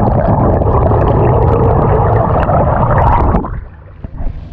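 Loud rushing noise of a moving boat, with wind buffeting the microphone. It drops away sharply about three and a half seconds in.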